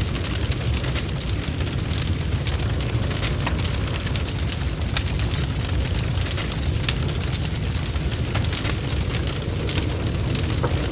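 Wood fire crackling, with many sharp irregular pops over a steady low rumble of the flames.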